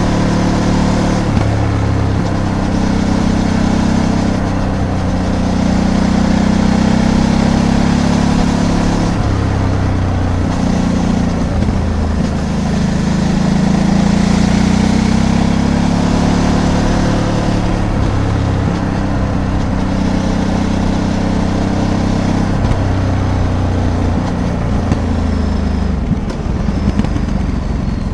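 Ducati DesertX Rally's 937 cc twin-cylinder engine running on the move, its pitch rising and falling several times as the throttle and gears change, with wind rush and road noise. It eases off toward the end.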